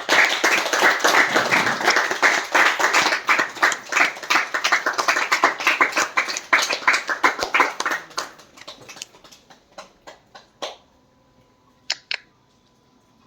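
A small group applauding: dense hand-clapping that thins out about eight seconds in to a few scattered claps, with two last claps near the end.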